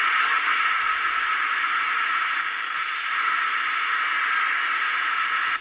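Steady static hiss from the speaker of a vintage Superstar 360FM CB radio, with no station coming through. It is the noise of an open receiver between transmissions, with a few faint ticks, and it cuts off suddenly near the end.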